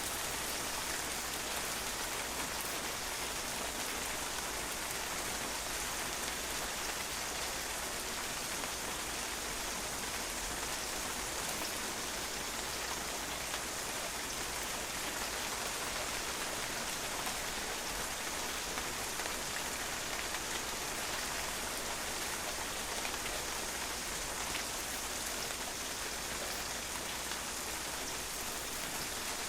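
Steady rain falling on a patio, a dense even hiss of drops striking and bouncing off the hard surface, with no let-up.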